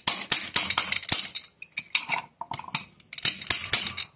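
Hammer tapping a chisel in three quick runs of sharp metal-on-metal clinks, the chisel chopping a notch into a wooden board.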